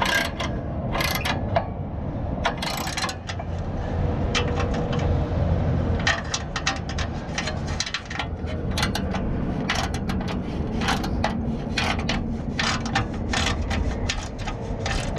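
Ratchet wrench clicking in irregular runs as a muffler is tightened onto a mower's exhaust pipe.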